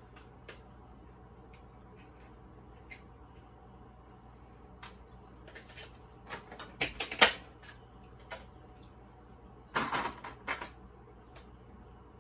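Plastic clicks and clatter from handling an RC helicopter's controller and its AAA batteries, with scattered single clicks and two louder bursts of rattling, about seven and ten seconds in.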